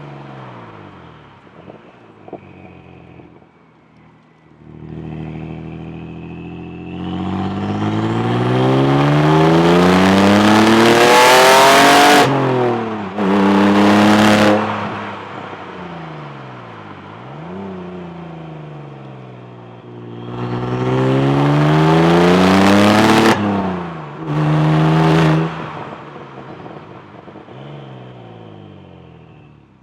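Saab Turbo X's turbocharged 2.8-litre V6, on a big G25 turbo with a 3.5-inch downpipe and Hirsch axle-back exhaust, accelerating hard twice. Each pull rises steadily in pitch, breaks off at an upshift, pulls briefly in the next gear and then falls away as the throttle is lifted.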